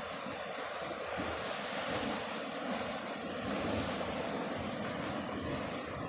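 Sea surf and wind rushing steadily, with wind buffeting the microphone. The rush swells about two seconds in and again near four seconds.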